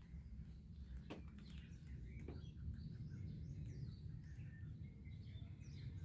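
Small birds chirping faintly, in scattered short calls, over a steady low rumble on the microphone, with two soft clicks about one and two seconds in.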